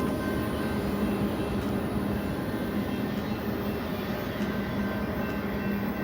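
BNSF double-stack container train rolling past: a steady rumble of wheels on rail with a constant low hum underneath.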